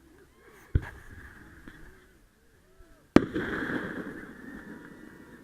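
Two fireworks going off about two and a half seconds apart, the second bang the louder, followed by a crackle that fades over a couple of seconds.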